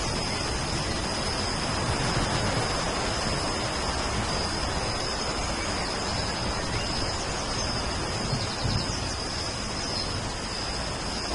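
Steady rain, an even hiss, with a thin, steady high-pitched tone running through it.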